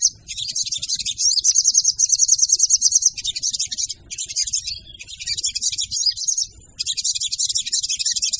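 Female sogon (crimson sunbird) calling as a lure: a rapid, high-pitched chattering trill in long bursts, broken briefly about four and six and a half seconds in.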